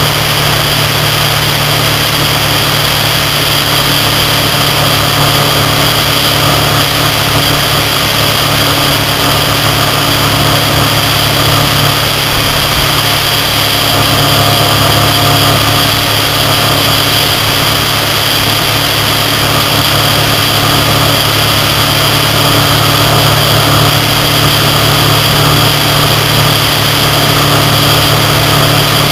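Motorcycle engine running steadily at highway cruising speed, a constant low drone mixed with wind and road noise on a bike-mounted camera.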